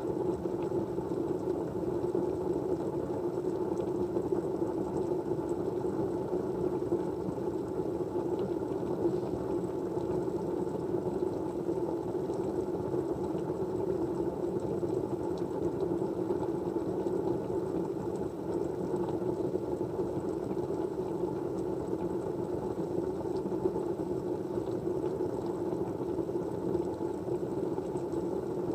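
Steady white-noise background: an even, low rushing hiss that does not change.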